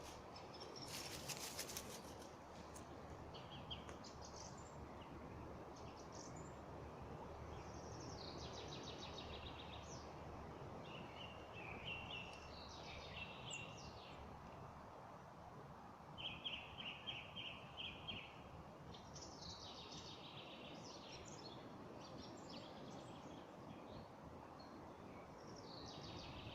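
Songbirds singing in a spring forest: short trilled and chirping phrases repeated every few seconds, faint over a steady background hiss.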